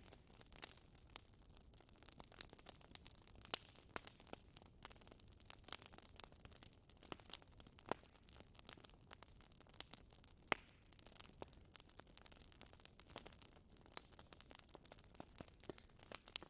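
Wood fire crackling: irregular sharp pops and snaps over a faint hiss, with a louder pop about ten and a half seconds in.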